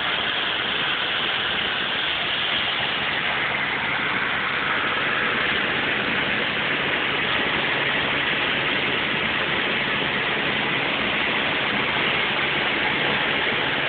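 Steady vehicle engine hum under a constant rushing noise, as when riding in a moving vehicle.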